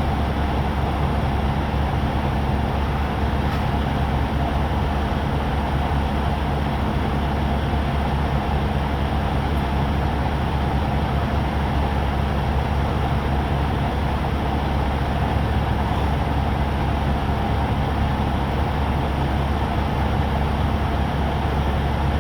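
A vehicle engine idling, a steady low hum that does not change.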